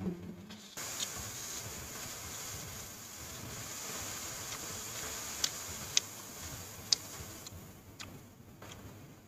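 Close-up chewing of rice and grilled sausage, with a few sharp mouth clicks a little past the middle. A steady hiss begins about a second in and fades out near the end.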